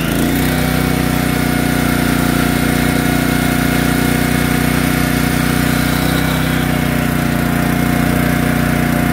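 Honda GX160 single-cylinder four-stroke engine of a Kodiak 2800-watt generator running at a steady speed.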